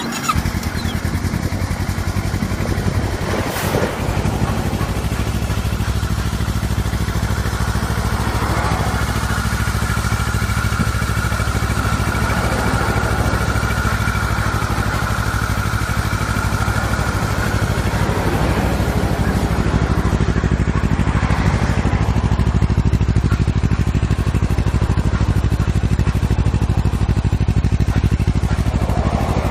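Kawasaki Ninja 400R's parallel-twin engine running steadily through an aftermarket slip-on muffler, holding an even idle-like speed with no revving.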